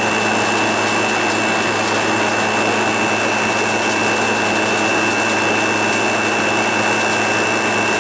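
Arctic King WWK05CM71N window air conditioner running, heard close to its GMCC ASK44E1VAJ compressor: a steady whirring noise with a constant high whine and a low hum.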